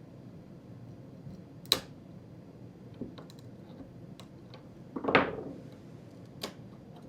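CNC-cut plywood pieces being snapped out of the cut sheet by hand: a handful of irregular sharp cracks and clicks, the loudest about two seconds in and a rougher crackling snap about five seconds in.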